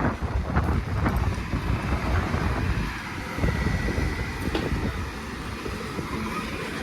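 Wind buffeting the microphone, a gusty low rumble that rises and falls. A faint steady high whine sits under it through the middle.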